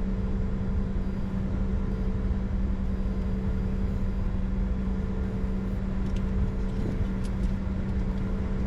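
Cockpit noise of a Bombardier Challenger 605 with its two CF34 turbofans idling: a steady low rumble under a constant hum.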